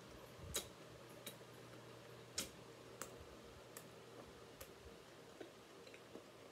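Quiet chewing of a meatball sub: faint, irregular wet mouth clicks and smacks, roughly one a second, over a low steady hum.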